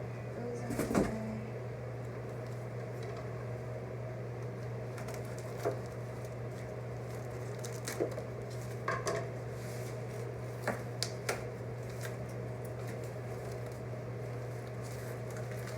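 Occasional light clicks, taps and rustles of plants and packaging being handled, over a steady low hum.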